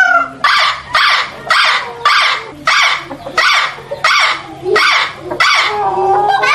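Parrot calling in a rapid series of short, harsh squawks, about two a second.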